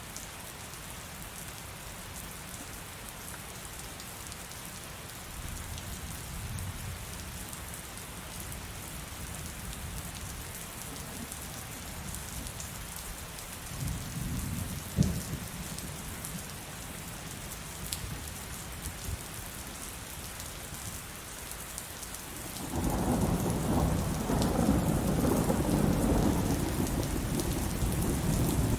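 Heavy rain falling steadily, with thunder: a faint rumble early on, a sharp crack about halfway through, and a loud, long rolling rumble over the last six seconds.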